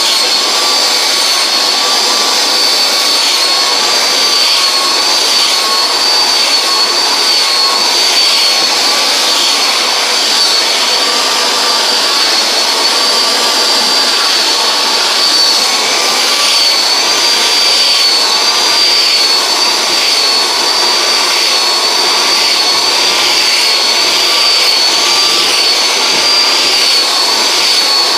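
Conair styler handheld hair dryer with a comb attachment running steadily on high: a rush of blown air under a high, slightly wavering motor whine.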